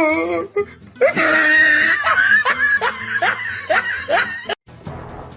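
Laughing in a quick run of short, rising bursts that cuts off abruptly near the end, followed by faint music.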